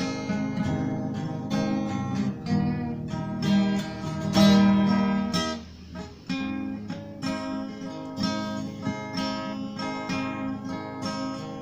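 Acoustic guitar playing a song instrumentally, strummed chords and plucked notes in a steady rhythm, with a brief drop in level about six seconds in before it picks up again.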